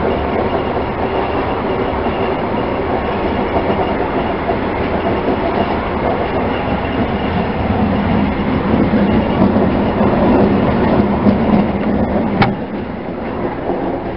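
Passenger railroad car rolling along the track, heard from inside the car: a steady rumble of wheels on rail that swells a little past the middle, with one sharp click near the end.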